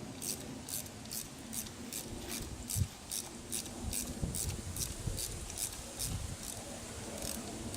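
Hand tools working on an outboard motor's bolts: metal rubbing and scraping, with a clunk about three seconds in. Behind it, a steady high-pitched ticking repeats about two or three times a second.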